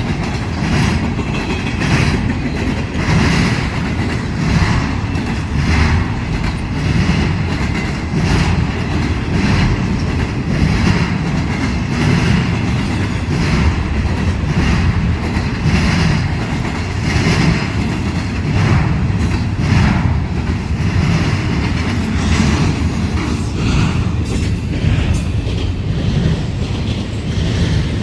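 Freight train rolling past with its cars' wheels clacking over rail joints, a steady rumble broken by repeating clacks about once a second.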